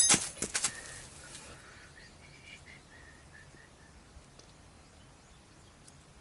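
A sharp metallic clink with a brief high ringing, amid rattling clicks, in the first second; then a short series of faint, high, evenly spaced chirps about two to three seconds in, over low background quiet.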